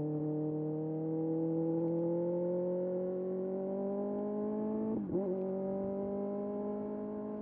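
2025 Kawasaki ZX6R's 636 cc inline-four running under steady acceleration, its note climbing slowly with the revs. About five seconds in there is a brief break and the pitch drops as the bike shifts up a gear, then it pulls steadily again.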